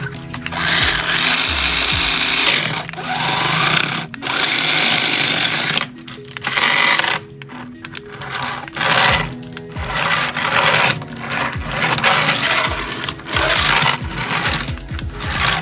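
Small electric motor and gearbox of a remote-control toy car whirring in repeated bursts of a second or two, with short pauses between, over background music.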